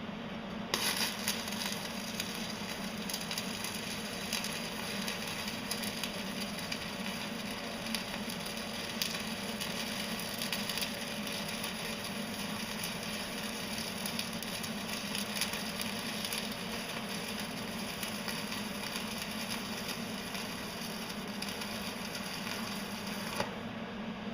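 Stick welder arc laying a bead: a steady crackle and sizzle that strikes up about a second in and stops just before the end. Under it, the steady hum of an extractor fan venting the fumes.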